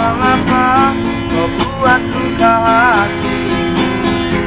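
A busker's song: acoustic guitar strummed in a steady rhythm, with a held, wavering vocal line sung over it in several phrases.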